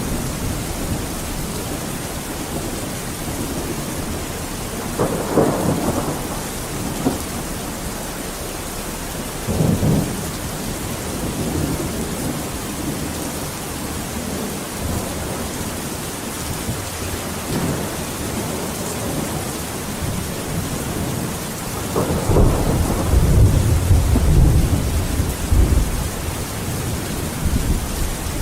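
Steady rain falling, with thunder rumbling: two shorter rolls about five and ten seconds in, and a longer, deeper rumble in the last quarter.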